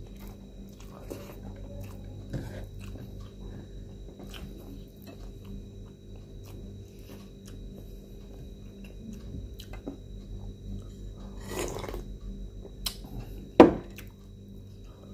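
Close-up chewing and mouth sounds of a person eating rice and shrimp with his hands, with scattered small clicks and one sharp click near the end, over a faint steady hum.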